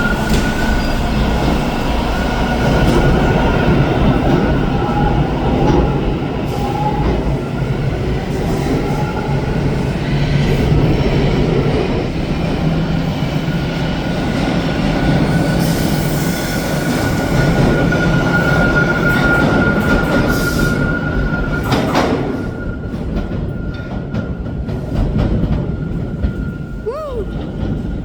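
TTC Line 2 subway train running alongside the station platform, a loud rumble with a steady high-pitched wheel squeal, growing quieter over the last few seconds as it pulls away.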